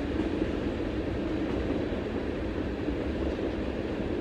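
Canadian National train rolling past, a steady rumble of wheels on the rails.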